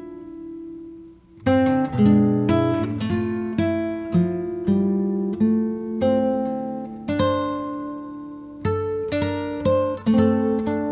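Acoustic guitar playing an instrumental passage of plucked notes and strummed chords; the sound dies away about a second in, then the playing picks up again.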